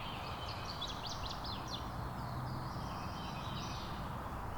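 Wild birds chirping in a swamp, with a quick run of short high notes about a second in and scattered calls after, over a steady low background rumble.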